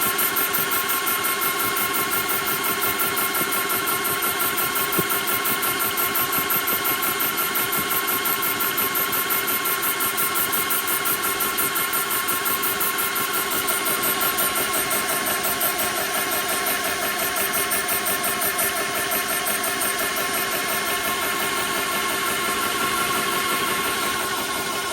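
TOAUTO A1X high-pressure PCP air compressor running steadily, a fast even pulsing from its pump with a steady whine over it.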